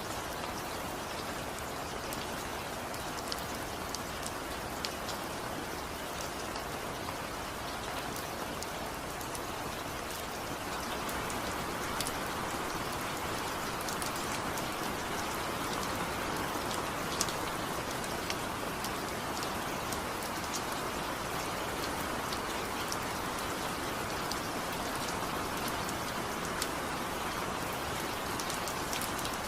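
Steady rainfall: an even hiss of rain with scattered sharper single drops ticking through it. The rain grows a little heavier about a third of the way in.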